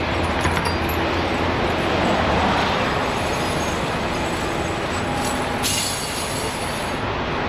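Tire chains clinking as they are fitted onto a semi-truck's tires, over a steady heavy rumble and hiss, with a sharp metallic clink about five and a half seconds in.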